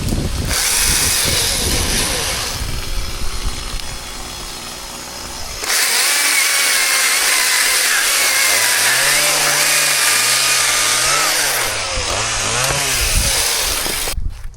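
Chainsaw running and cutting, its engine pitch rising and falling in waves over the second half, then stopping abruptly near the end.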